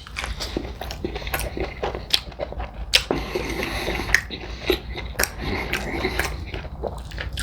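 Close-up chewing and biting of extra-crispy fried chicken: irregular crunching and wet smacking, many sharp clicks at uneven spacing.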